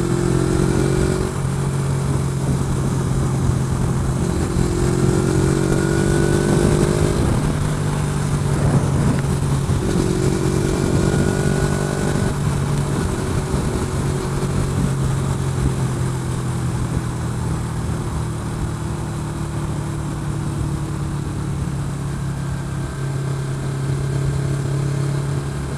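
Motorcycle engine running steadily at highway speed, with constant wind rush over a helmet-mounted camera's microphone. The engine note climbs a little three times, in the first few seconds, again around five to seven seconds in, and around ten to twelve seconds in.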